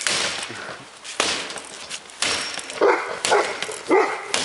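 Three loud bangs about a second apart as the dishwasher is smashed, each trailing off in a clatter. A dog barks several times in the second half.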